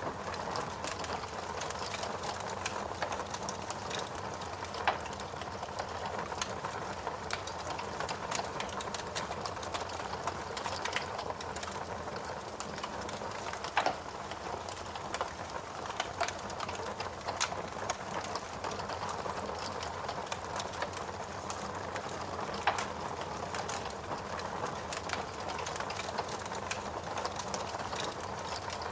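Wood fire burning in a fireplace: a steady hiss with frequent small crackles and a few louder pops.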